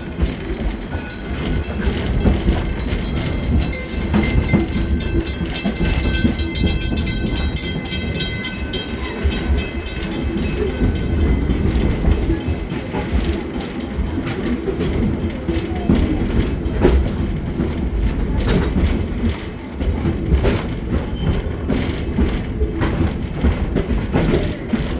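Steam train cars rolling along the track, heard from on board: a steady rumble with clicks from the rails. A few faint high steady tones run through roughly the first half.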